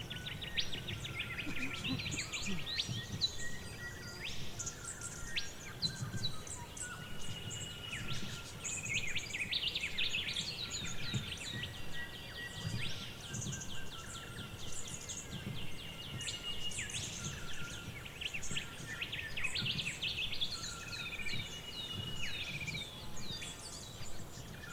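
Forest ambience of several birds singing and calling at once: quick chirps, trills and a few held whistled notes, overlapping continuously over a low background rumble.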